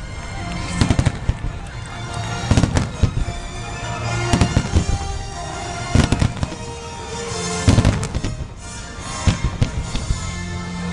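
Fireworks display: shells and ground-fired mines going off in clusters of sharp bangs every second or two, over music playing throughout.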